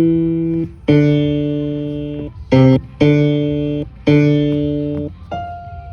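Electronic tones from a floor piano mat being stepped on. Several notes, mostly at the same low pitch, each starts sharply, fades and then cuts off abruptly, and one is brief; a faint higher tone sounds near the end.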